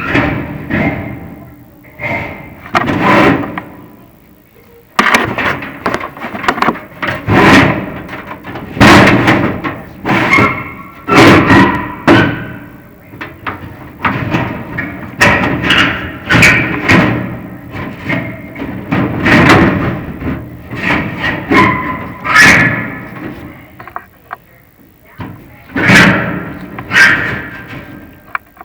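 Chimney inspection camera and its push rod knocking and scraping inside a prefabricated metal fireplace flue: a long run of irregular knocks, many followed by a brief metallic ringing.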